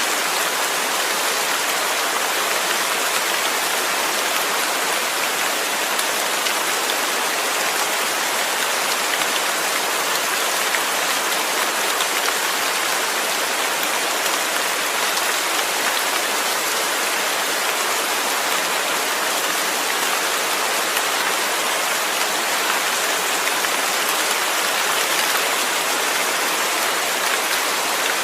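Steady rain falling, an even hiss of pattering drops with no breaks or single louder events.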